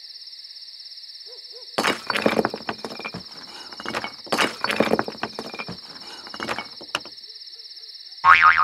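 Night-time sound effects: a steady high chirping of crickets, faint owl hoots, and loud crackling bursts about two, four and a half and six and a half seconds in.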